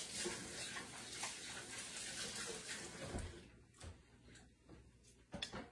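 Faint, noisy crunching and mouth sounds of someone chewing a biscuit, stopping about three and a half seconds in, then a few faint clicks.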